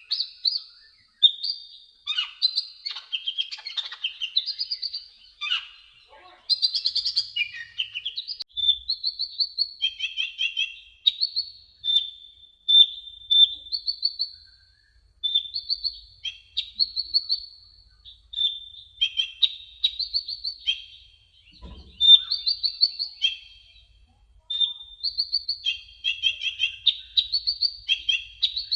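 Kolibri ninja sunbird singing: a run of short, rapid, high twittering phrases of chirps and trills, each lasting about a second, separated by brief pauses.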